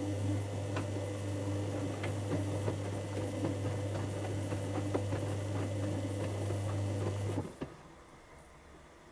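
Dyson Contrarotator CR01 washing machine running mid-wash with a steady low hum and light clicking, starting suddenly and stopping about seven and a half seconds in.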